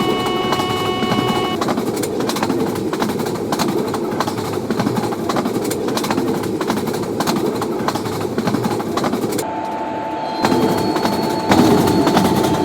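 Train passing at speed: a steady rumble with rapid clicks of the wheels over the rail joints. A steady tone joins near the end.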